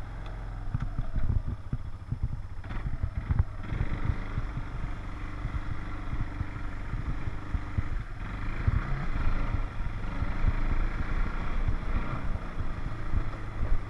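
Four-wheeler (ATV) engine running steadily, with irregular low thumps over the rumble.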